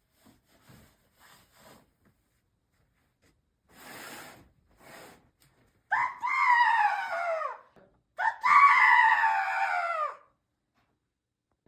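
A few soft rustles, then two long, shrill cries, each falling in pitch, made as the raven's call.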